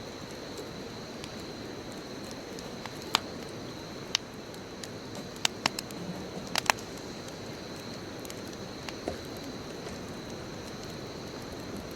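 Bonfire burning with a steady hiss of flames and a thin steady high tone behind it, broken by about seven sharp wood pops and crackles, most of them between three and seven seconds in.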